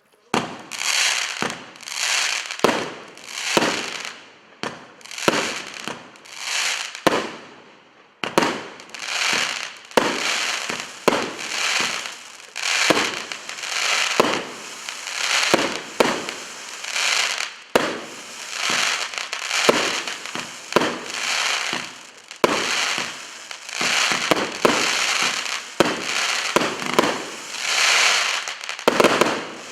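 A 38-shot consumer fireworks cake firing shot after shot, about one a second, each sharp bang trailed by a burst of crackling.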